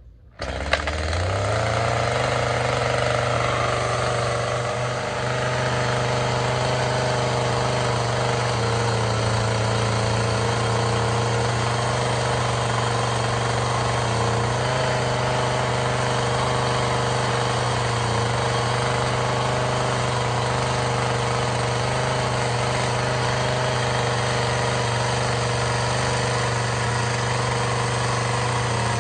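Chainsaw engine coming in suddenly about half a second in. Its pitch climbs quickly, then it runs steadily at an even speed.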